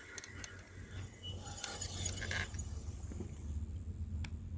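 A bicycle's freewheel and drivetrain ticking and rattling as it rolls along, with a sharp click near the end. A low rumble of wind on the microphone grows through the second half.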